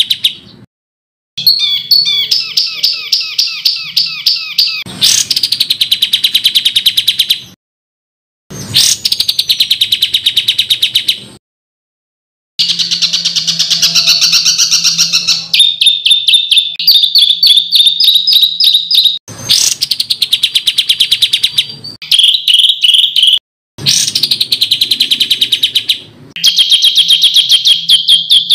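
Songbird song-tutor recording of harsh, rapid-fire repeated calls: loud runs of very fast, high chattering notes, each a few seconds long, cut apart by abrupt silent gaps where clips are spliced together.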